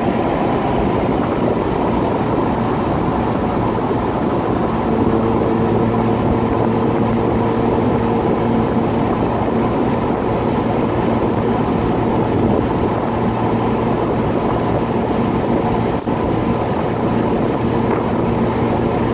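2002 Mazda Miata's 1.8-litre four-cylinder running through a catless exhaust with a Goodwin Racing Roadster Sport 3 muffler (baffle out, stock resonator), cruising steadily at about 70 mph with the top down, mixed with wind and road noise. A steady exhaust drone tone comes in about five seconds in and holds.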